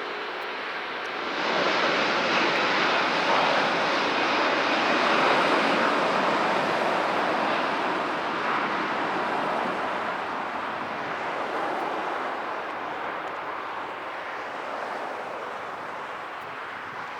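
Jet airliner's engines roaring as it passes. The roar rises sharply about a second in, then fades slowly.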